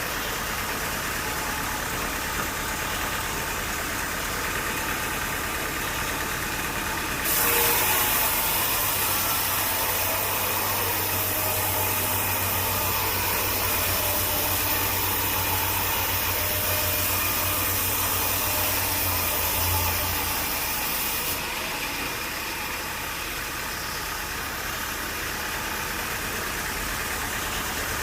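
Sawmill engine running steadily. From about seven seconds in to about twenty-one seconds in there is a louder stretch with much more hiss.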